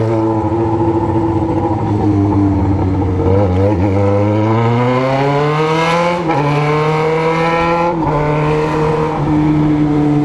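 Yamaha XJ6 inline-four motorcycle engine through a 4-into-1 straight-pipe exhaust, accelerating: the revs climb from about halfway through, drop sharply with an upshift just after six seconds, climb again and drop with another upshift around eight seconds, then hold steady.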